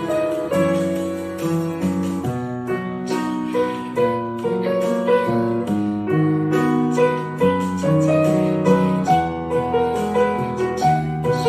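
Gentle instrumental music led by piano, its notes following one another at a steady pace.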